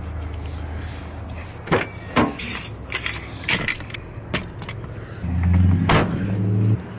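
Ute's engine running with a steady low hum, louder and a little higher in pitch for a second or so about five seconds in. Several sharp knocks and clicks are scattered through it.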